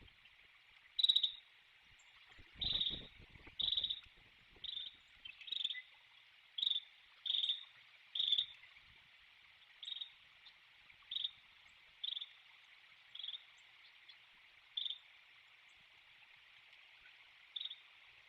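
A crow calling repeatedly: about fifteen short, harsh calls roughly a second apart, thinning out after about fifteen seconds with one last call near the end. A steady chorus of insects hums underneath, and a few low thumps come around the third second.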